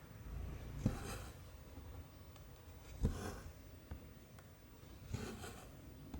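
Cross-stitch needle and cotton thread being pulled through 14-count canvas, three stitches about two seconds apart. Each is a soft tap as the needle goes through, then a short rasp as the thread is drawn after it.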